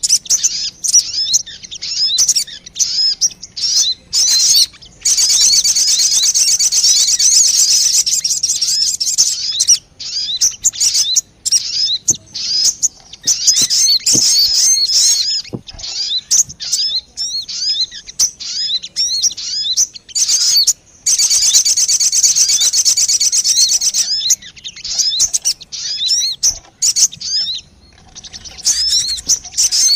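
Sogon bird calls played as a bird-lure recording: rapid, high chirps repeated in dense runs, broken by short pauses of a second or so.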